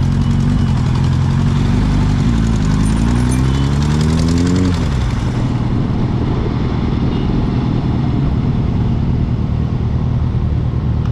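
Motorcycle engine running under way over a steady low rumble; about two seconds in it revs up, its pitch rising for a couple of seconds, then falls away sharply as the throttle is let off.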